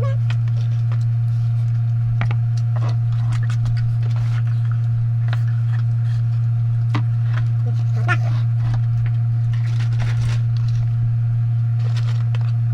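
A steady low hum throughout, with scattered faint clicks and crackles over it.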